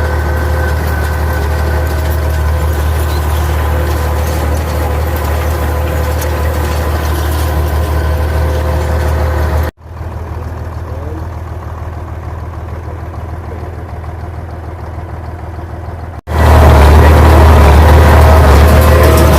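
International Farmall 460 tractor's diesel engine running steadily while it pulls a hay rake, a deep drone with a few steady tones above it. It drops to a quieter level about ten seconds in and jumps back louder about sixteen seconds in.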